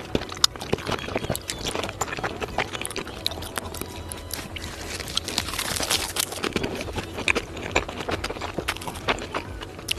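Close-miked chewing of raw salmon: a steady run of sharp, wet mouth clicks and smacks.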